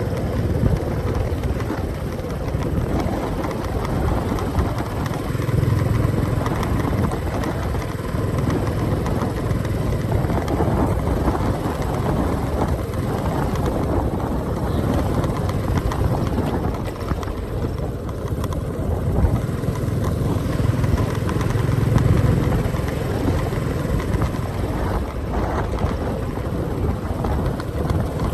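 Motorcycle engine running while riding along, a steady low rumble that swells a little twice.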